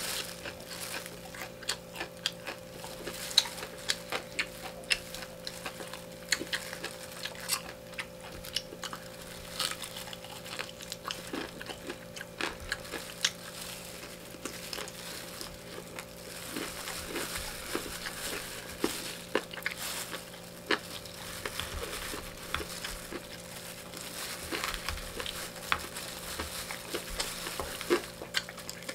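Close-up mukbang eating sounds: crunching bites of crispy fried chicken and chewing, with many small clicks and crackles throughout. A steady faint hum runs underneath.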